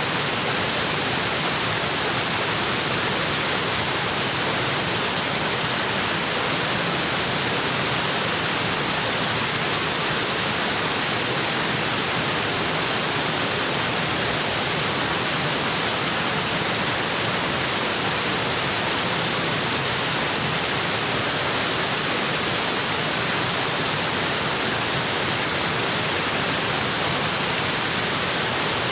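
Waterfall water falling onto rocks, a steady unbroken rushing with no changes.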